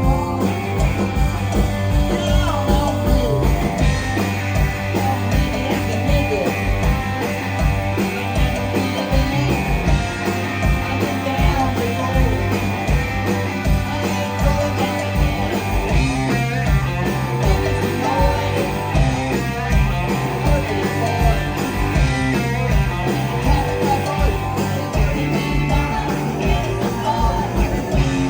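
Rock band playing live: electric guitars over bass and drums with a steady beat.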